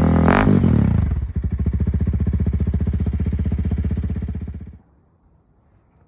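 Honda CRF300L single-cylinder four-stroke engine running through an aftermarket slip-on exhaust. It is held at high revs, drops back to an even, pulsing idle about a second in, then cuts off suddenly near the end.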